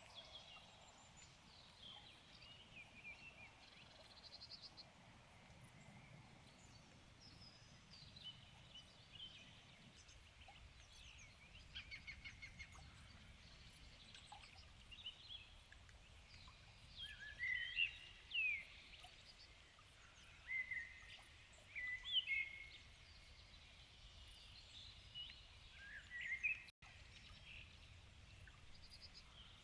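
Evening birdsong: several birds singing and calling, a mix of short chirps and whistled notes, faint at first and louder and busier about halfway through.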